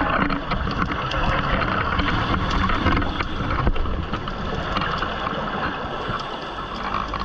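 Steady rushing noise of water and wind on the microphone, with small crackles throughout.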